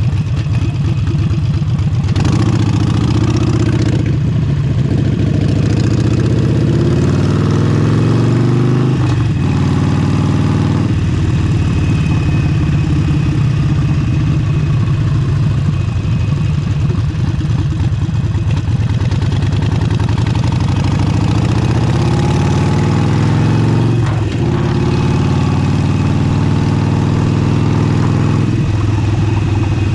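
Harley-Davidson Forty-Eight's 1200 cc V-twin with an aftermarket Vance & Hines exhaust, accelerating under way: the engine note climbs, drops at each gear change and climbs again, several times.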